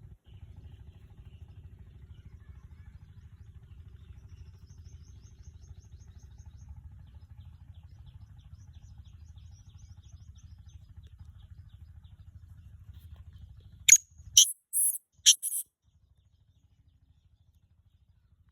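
A teetar (partridge) giving four loud, harsh calls in quick succession about fourteen seconds in, over a low steady rumble, with a faint rapid high chirping earlier on.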